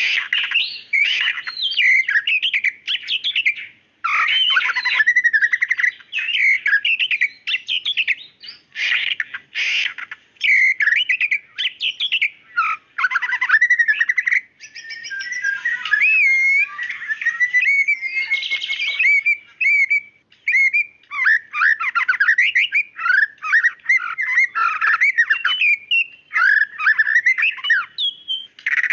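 White-rumped shama singing a rapid, varied stream of whistled and chattering phrases in loud bursts with short gaps, including a run of sliding whistles around the middle.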